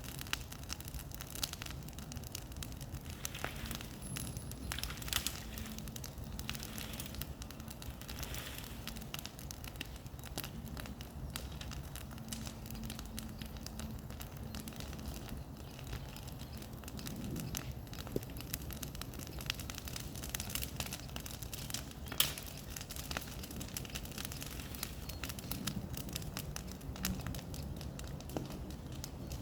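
Bonfire crackling and popping, with irregular sharp snaps and one louder crack about 22 seconds in.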